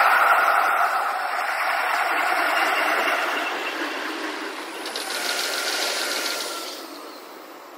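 Electric commuter trains passing on multiple tracks, played back six times faster, so the wheel clatter runs together into a fast ratcheting chatter with a quick run of clicks about five seconds in. The sound fades near the end as the trains clear.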